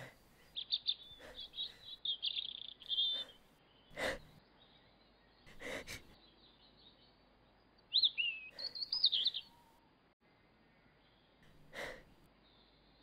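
Songbirds chirping and warbling in short, high phrases, twice, with three brief scuffs in between.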